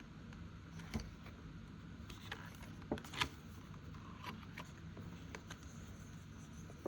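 Faint handling of paper envelopes and a binder: a few light taps and clicks, the clearest about a second in and around three seconds in, over a low steady room hum.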